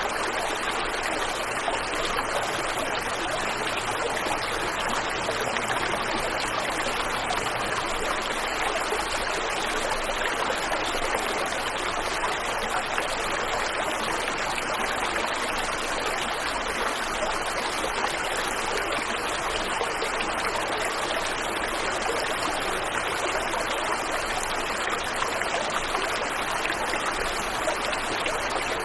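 Waterfall and river water flowing in a steady, even wash of sound with no change.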